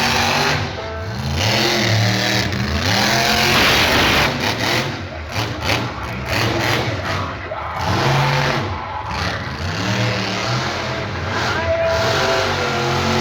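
Monster truck engine revving hard and easing off again and again, its pitch rising and falling several times over the run.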